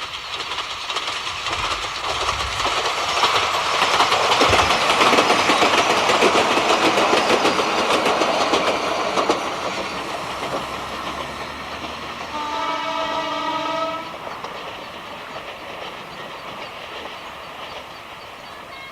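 A diesel train passes, its wheels clattering over the rail joints, growing louder, then fading away. Near the end of the passing it sounds one steady horn blast of under two seconds.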